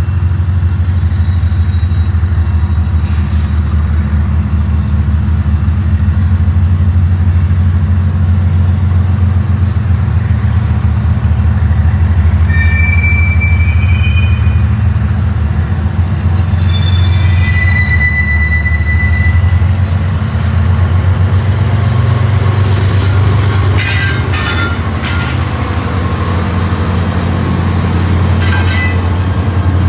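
CSX freight train's diesel locomotives running steadily as the train approaches and passes close by, with a deep engine drone. A high wheel squeal comes briefly twice around the middle, and sharp clicks and rattles from the wheels and cars follow in the latter part.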